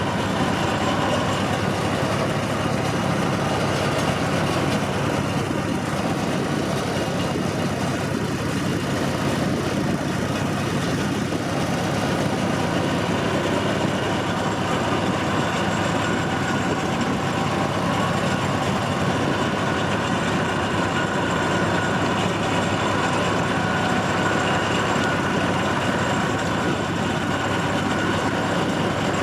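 Locomotive of a tourist train running steadily, heard from aboard: an even engine drone with rolling noise and no sudden changes.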